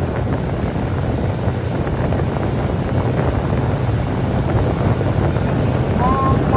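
Boat motor running steadily underway, with wind buffeting the microphone.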